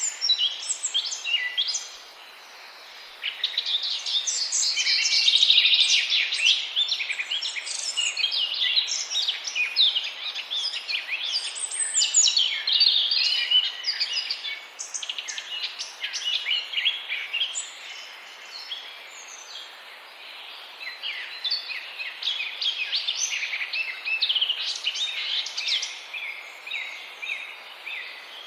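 A flock of small birds chirping and twittering continuously, many short high calls overlapping, with a brief lull about two seconds in.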